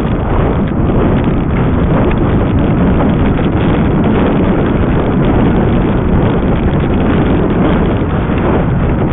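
Wind buffeting the microphone of a camera on a moving e-bike, a loud, steady, low rumble.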